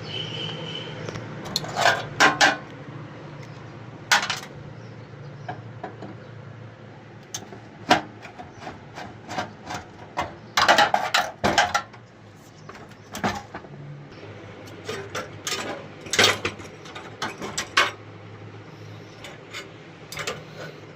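Irregular metallic clinks, taps and clatters of gas hob burner parts and tools being handled, over a steady low hum.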